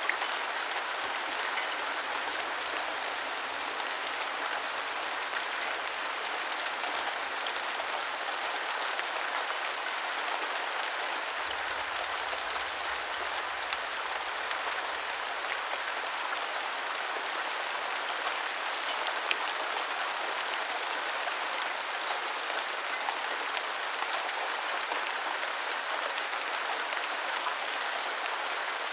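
Steady rain falling, an even hiss sprinkled with sharper ticks of individual drops.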